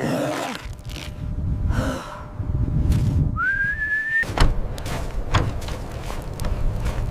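A short whistle about halfway through, rising slightly in pitch and lasting under a second, over a low rumble with scattered knocks.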